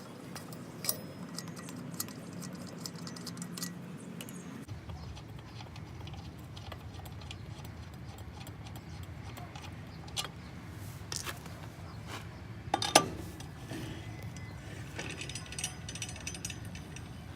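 Lug nuts being turned off their wheel studs with a cross lug wrench, a run of small metallic clicks and rattles, with a sharp knock about 13 seconds in and light metal clinks near the end.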